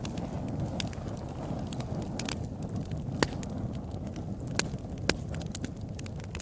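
Fire burning in a fireplace: a steady low rush of flames with irregular crackles and sharp pops, the loudest pop about three seconds in.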